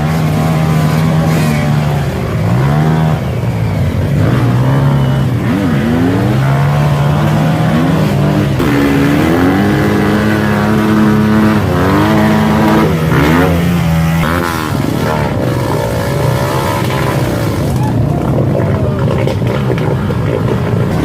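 Off-road motorcycle engine revving hard, its pitch held steady for stretches and dropping and climbing again several times as the bike struggles stuck in mud. It becomes rougher and less steady after about two-thirds of the way through.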